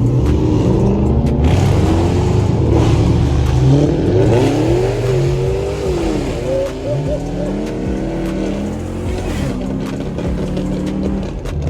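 Several American muscle-car engines revving together, their overlapping notes rising and falling repeatedly, loudest a few seconds in, then settling toward a steadier run.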